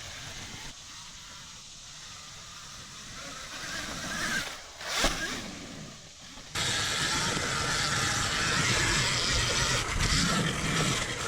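Alta Redshift electric dirt bike being ridden: no engine note, just motor, chain and knobby-tyre noise. It gets suddenly much louder about six and a half seconds in.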